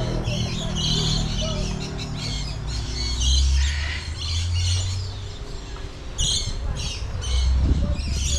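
Several birds chirping and squawking in short repeated calls, with a low rumble underneath that swells for a while in the middle and again near the end.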